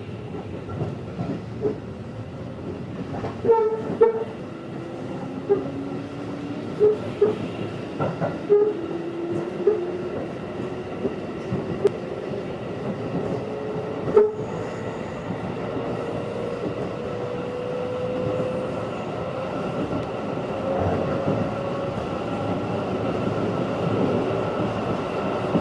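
211 series electric multiple unit running, heard from inside the passenger car: irregular wheel knocks over rail joints in the first half, under a hum that rises steadily in pitch and grows louder as the train picks up speed.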